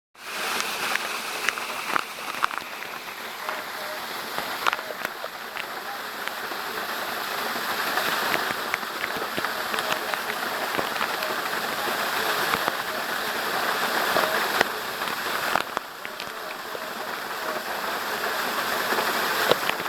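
Waterfall pouring steadily, a dense rushing of falling water with scattered sharp splashes.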